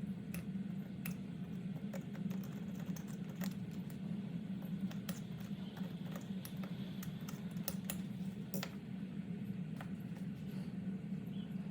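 Irregular light clicks and taps of small metal parts being handled, over a steady low hum.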